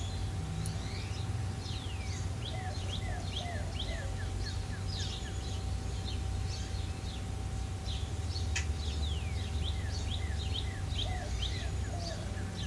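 Small birds chirping many times over, in short falling chirps, above a steady low rumble of outdoor background noise and a faint steady hum.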